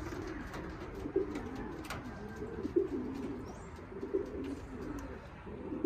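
Racing pigeons cooing in the loft, several low, warbling coos overlapping one another without a break. A few sharp clicks sound over them.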